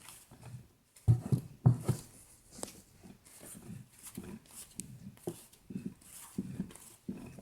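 BMW E90 rear differential turned by hand with one axle held so the pinion turns, giving a series of short, uneven rumbling strokes. The noise comes from the pinion bearing, which the mechanic is almost certain is worn.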